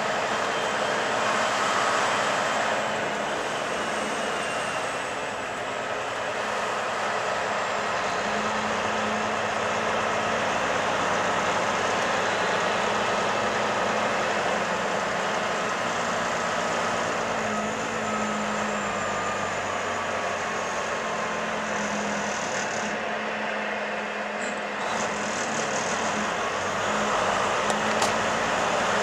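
Semi-truck running steadily at highway speed: a constant engine drone under road and wind noise.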